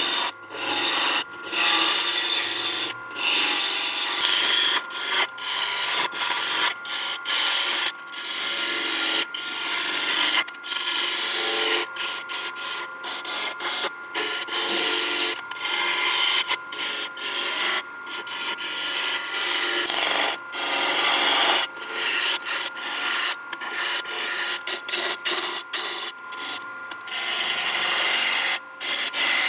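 Turning tool cutting a spinning wood blank on a lathe, shaping its outside curve. The scraping and hissing of the cut is broken every second or two by short gaps where the tool comes off the wood, over a faint steady whine.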